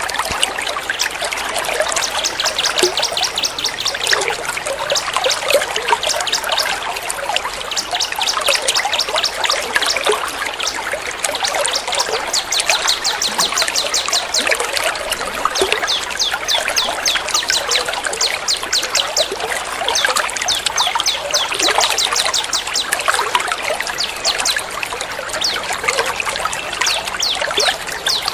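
Steady trickling water with fast, high, repeated songbird chirps layered over it, a continuous bird-song tutoring (masteran) mix.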